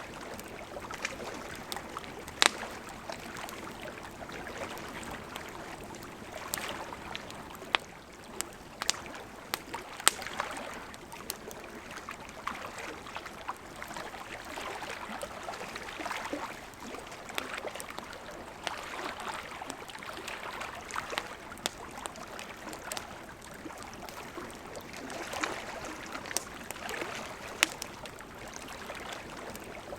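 Wood campfire crackling with sharp, irregular pops, over small lake waves lapping in soft swells that rise and fall every few seconds.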